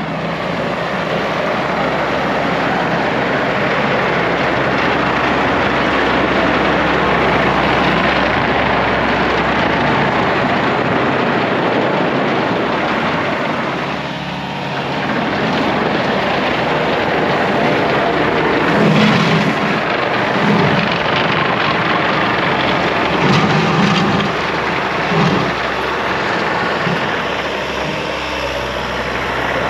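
Diesel engine of a Mecalac excavator-loader running steadily under work. There are a few short low pulses about two-thirds of the way through.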